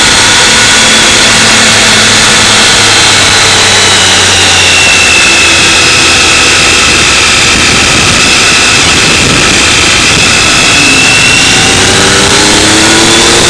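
Motorcycle engine running under way with heavy wind rush on the microphone; the engine pitch rises in the last few seconds.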